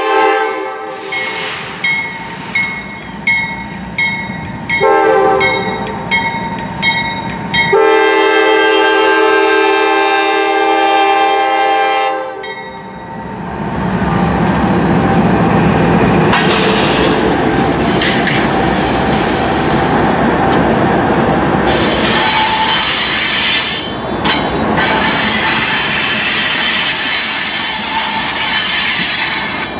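Diesel freight locomotive horn sounding a crossing warning in several long blasts over about twelve seconds, with a rapid ringing early on, as the Norfolk Southern locomotives approach. The locomotives and cars then pass close by with a loud, steady noise of engines and wheels on rail, joined by wheel squeal in the second half.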